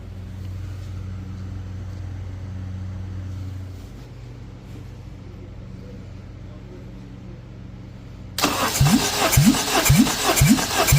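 Honda K24A 2.4-litre four-cylinder engine cranked over by its starter motor for a compression test. The loud starter whirr starts suddenly about eight seconds in, after a low steady hum, and rises and falls about twice a second as a cylinder comes up on compression.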